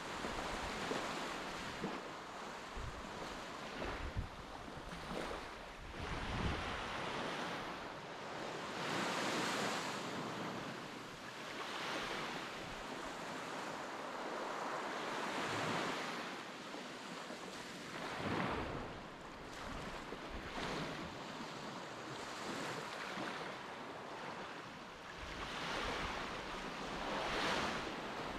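Sea waves breaking and washing onto a beach, swelling and fading every few seconds, with some wind buffeting the microphone.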